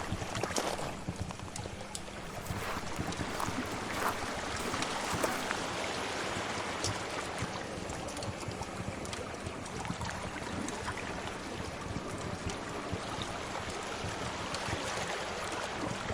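Sea waves washing in a steady rush, mixed with the scattered small pops and crackles of a fire.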